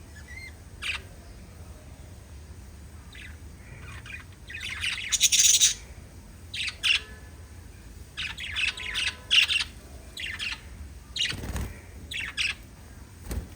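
A small flock of pet lovebirds chirping and squawking in short, irregular bursts, the loudest a harsh screech about five seconds in. Two low thumps come near the end.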